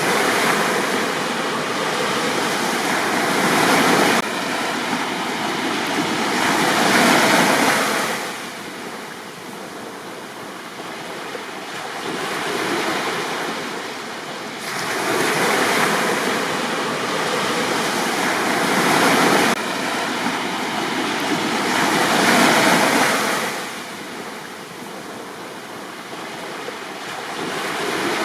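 Sea waves breaking on a beach and washing up the shore, the surf swelling and ebbing in slow surges about every six to seven seconds.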